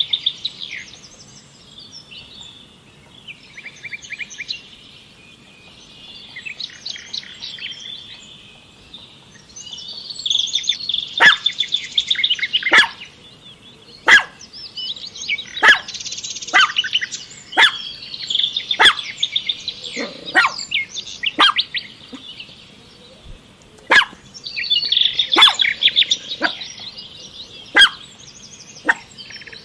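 Many small birds chirping and twittering, with repeated sharp calls that sweep quickly down in pitch, about one a second, from about a third of the way in.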